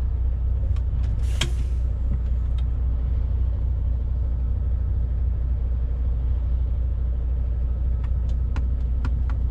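Heavy lorry driving, heard from inside the cab: a steady low engine and road drone, with one sharp click about a second and a half in and a few light ticks near the end.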